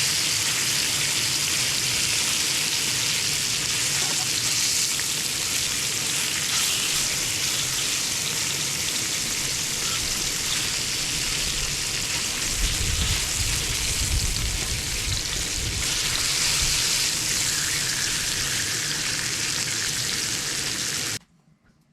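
Food frying in hot oil, a steady sizzle that cuts off suddenly near the end.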